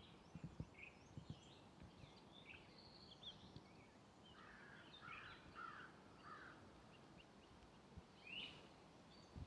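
Faint chirps and calls of several small songbirds scattered throughout, with a denser run of lower calls in the middle, over a steady hiss of open-air background noise. A few soft footsteps on the trail thump in the first second and a half.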